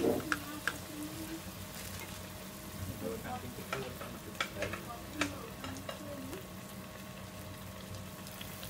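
Battered banana deep-frying in hot oil in a wok: a steady sizzle with scattered crackles and pops, a small cluster of them right at the start.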